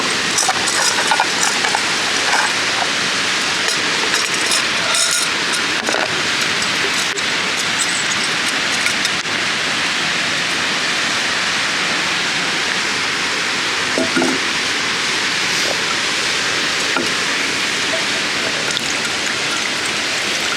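Portable gas camping stove burner hissing steadily while heating water, with a few light clicks and knocks in the first few seconds.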